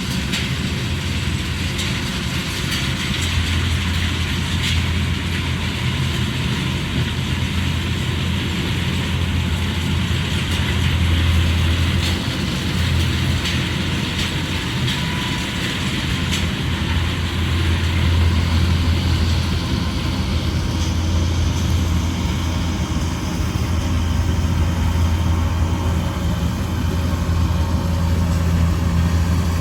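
Combine harvester running steadily in a rice field: a low engine drone with an even rushing noise above it.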